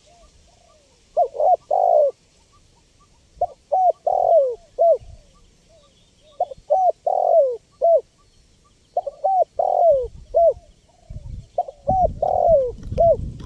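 Spotted dove (tekukur) cooing: five phrases of several coo notes each, about one phrase every two and a half to three seconds. A low rumble sits under the last two phrases.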